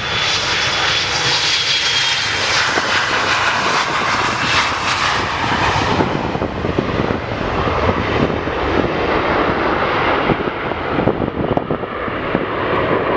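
Jet airliner's engines at takeoff thrust passing close, a loud steady rush with a thin whine drifting down in pitch during the first couple of seconds. The sharper hiss dulls after about six seconds as the aircraft moves away.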